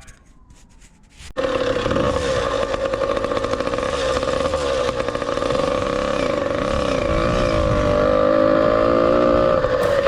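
Ported 100cc two-stroke motorized-bicycle engine with a YZ85 expansion pipe. It cuts in suddenly about a second in and runs under way, its pitch wavering and then climbing slowly toward the end.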